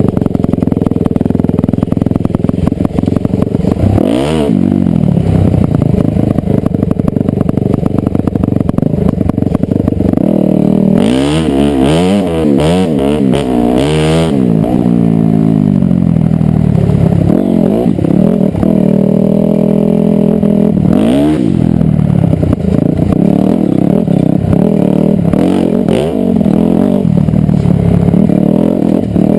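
Dirt bike engine run hard, its pitch rising and falling over and over as the throttle is opened and closed. About halfway through comes a cluster of quick throttle blips.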